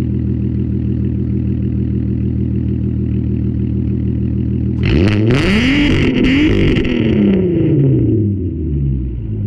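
Straight-piped VW Golf GTI VR6 engine idling on a cold start. About five seconds in it is revved once: the pitch climbs fast, then falls back to idle over about three seconds.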